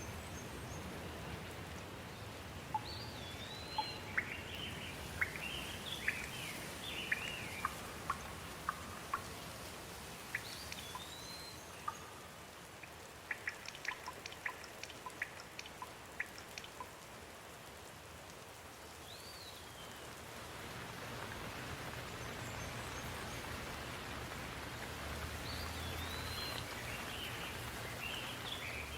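Steady rain falling, with a bird calling at intervals in short notes that rise and fall, and a quick run of sharp clicks about halfway through.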